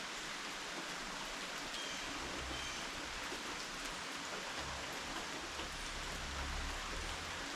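Steady rain falling, an even hiss, with a low rumble that comes and goes from about two seconds in.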